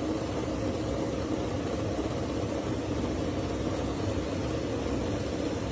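Racing motorcycle engine idling steadily in a team garage, an even hum with no revs.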